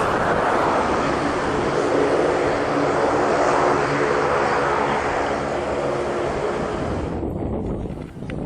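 Airplane engines passing close by: loud rushing engine noise with a steady droning tone, fading away near the end.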